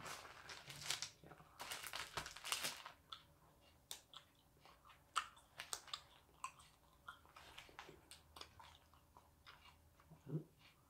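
A thin, crispy sheet of pressed dried-squid snack being torn apart with a rasping sound during the first few seconds. The torn piece is then chewed, making scattered, crisp crunching clicks.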